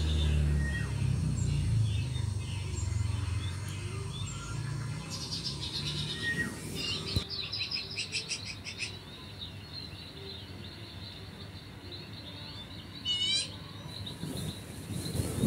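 Small birds chirping and trilling: a fast, stuttering trill about five seconds in and short runs of rising chirps near the end, over a low rumble in the first few seconds.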